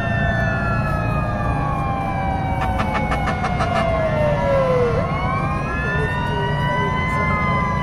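Several fire truck sirens wailing at once, their pitches rising and falling out of step with each other, over a low engine rumble. About three seconds in, a brief rapid run of clicks cuts through.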